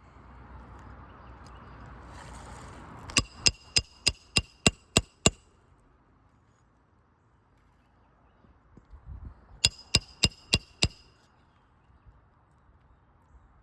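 Roofing hammer striking a steel roof snake to drive nails back in under a shingle: eight quick ringing metallic strikes about three a second, then after a pause five more.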